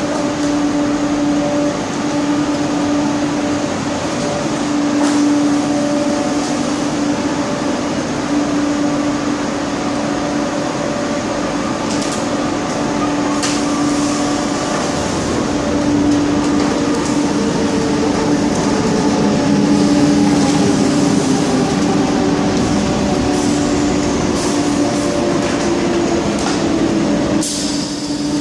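Electric S-Bahn train in a station: a steady electrical hum with several whining tones from the drive that slide down in pitch in the second half, and a few sharp metallic clicks.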